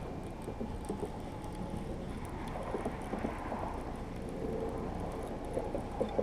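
Water sloshing against a kayak's hull, with small knocks and splashes.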